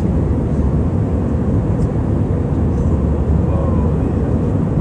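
Steady low noise inside a jet airliner's cabin: engine and airflow noise, constant throughout.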